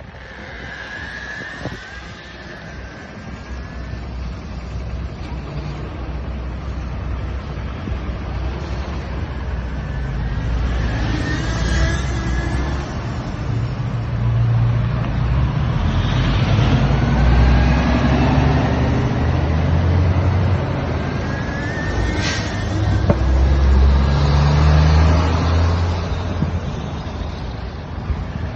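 Crossfire ECR1500 brushless electric dirt bike being ridden on its fastest setting: a faint motor whine rises and falls several times with the throttle, under a heavy rumble of wind on the microphone that swells through the middle and latter part.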